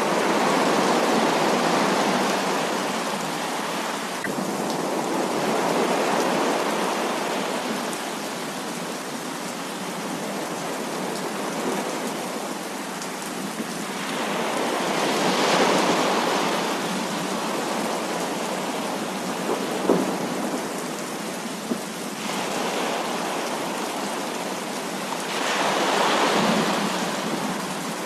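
Heavy rain pouring steadily, swelling louder about four times as rolls of thunder pass, with two sharp taps about two-thirds of the way through.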